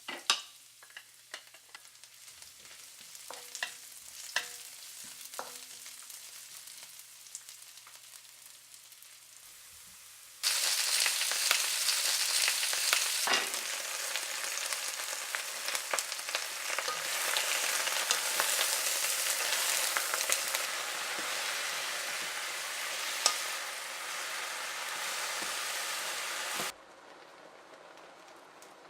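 Food frying in hot oil in a pan, with a utensil clicking against the pan as it is stirred. The sizzling is soft at first, then jumps abruptly to a loud, steady sizzle about ten seconds in, which cuts off suddenly near the end.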